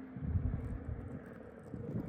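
A car engine at a distance: a faint, uneven low rumble that swells about half a second in, then eases.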